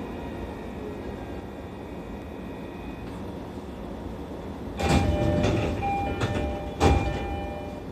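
Inside a JR East E531 series electric train standing at a station: a steady low rumble, then about five seconds in a loud burst of noise with clunks as the doors open, and another sharp knock about two seconds later.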